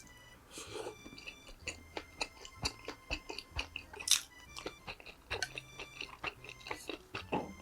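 Close-miked chewing and mouth sounds of someone eating: rapid wet clicks, smacks and small crunches, over faint background music.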